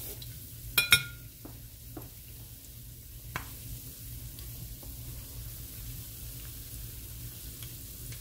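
Salmon patties sizzling in hot oil in a stainless steel skillet, a steady hiss with the burner just switched off. About a second in, a metal utensil clinks sharply against the pan with a brief ring, followed by a few light ticks.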